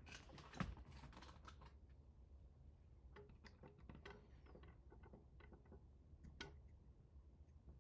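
Faint, irregular light clicks and taps of small hard parts being handled during assembly, with one sharper knock about half a second in.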